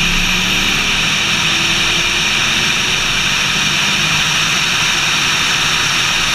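Camaro driving at speed: a steady, even rush of engine and wind noise with no changes in pitch, and a faint high whine rising in the first second or so.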